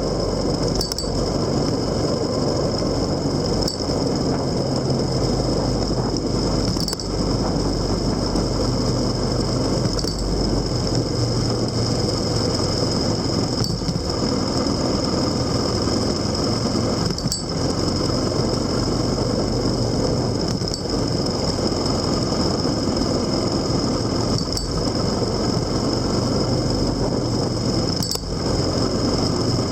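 A vehicle engine running steadily on the move, with road noise and a steady high whine. Faint short clicks come every three to four seconds.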